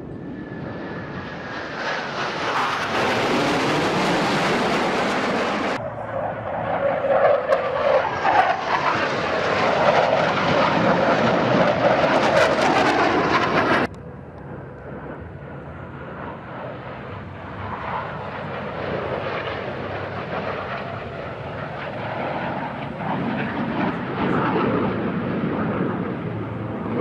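Jet noise from twin-engine F/A-18 Hornets in flight, swelling and fading, with a falling tone near the start and sudden changes about six and fourteen seconds in.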